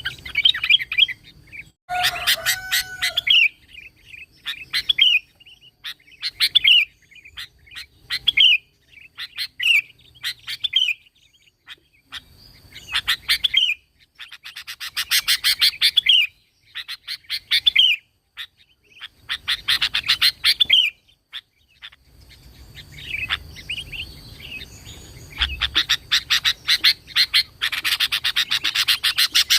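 Sooty-headed bulbul (kutilang) singing: short phrases of quick, bright notes repeated every second or two, turning into a denser run of chatter near the end.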